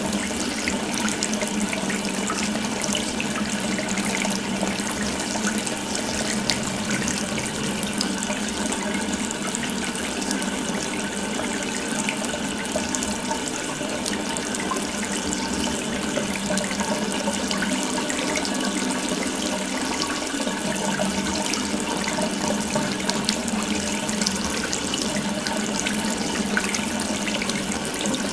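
Water running from an open tap in a steady, unbroken stream.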